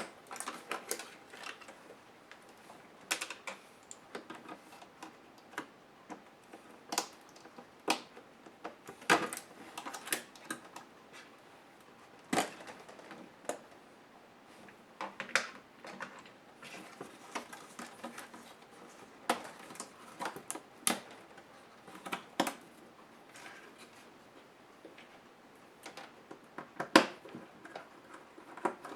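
Irregular clicks, taps and clatter of a laptop's plastic casing parts and small screws being handled and pried apart during disassembly.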